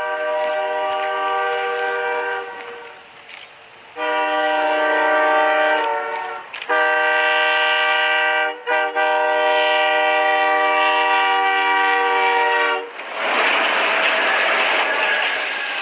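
Locomotive air horn sounding a chord in several long blasts with short gaps between them, the last blast the longest. Near the end the horn stops and a loud rush of noise follows as the train passes.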